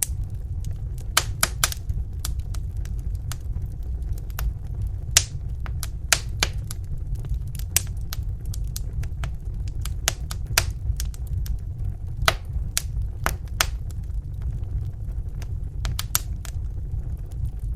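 Fireplace fire crackling: irregular sharp pops and snaps, a few louder than the rest, over a steady low rumble of flames.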